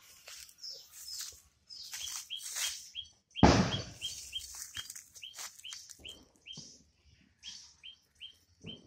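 A bird chirps repeatedly in short high notes, several a second. There is crackly rustling around two seconds in and a loud thump about three and a half seconds in.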